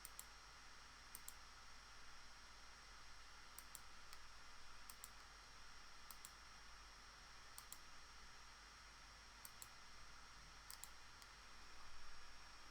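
Faint computer mouse button clicks: short, sharp clicks in close pairs, coming every one to two seconds over a low steady hiss.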